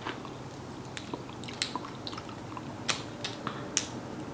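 A person chewing food close to the microphone, with a handful of sharp, wet mouth clicks and smacks scattered through.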